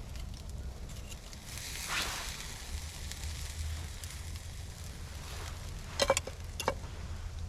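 Campfire crackling, with a soft swish about two seconds in and two sharp pops around six seconds in, over a steady low rumble.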